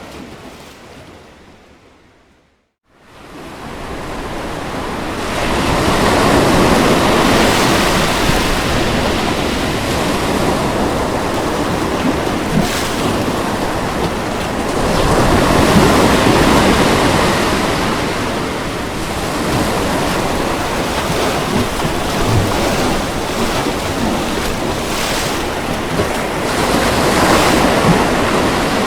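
Ocean waves breaking on a beach: a steady wash of surf that swells and eases with each set, about every ten seconds. About two seconds in, the sound fades out to silence and then fades back in.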